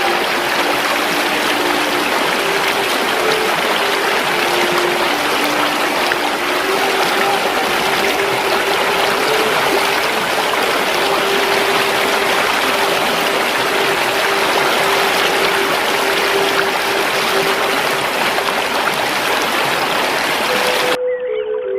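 Running stream water, a steady rushing trickle, with soft sustained music notes held underneath. The water sound cuts off suddenly near the end, leaving the music.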